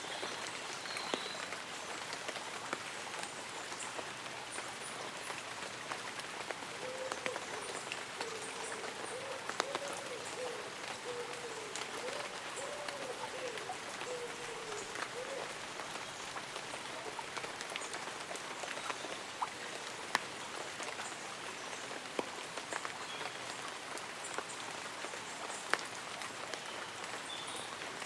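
Light rain falling on leaves and an umbrella, a steady patter with scattered sharper drop ticks. A low wavering call runs for several seconds in the middle, and faint high chirps come now and then.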